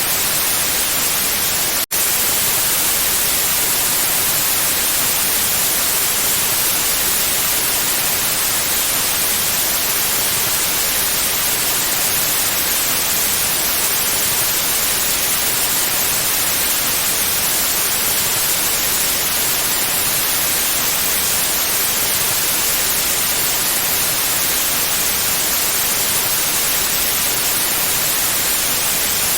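Steady white noise, an even hiss brightest in the high end, with a split-second dropout about two seconds in.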